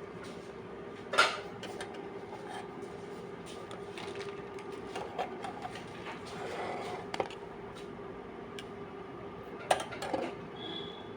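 A steady hum with scattered clicks and knocks; the loudest is a sharp knock about a second in, with another near the end.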